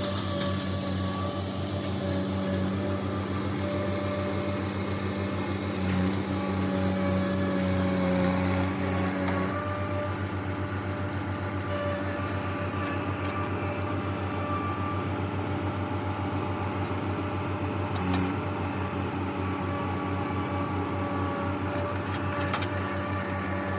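Diesel engine running steadily at a constant speed, a continuous hum with a fast, even firing pulse.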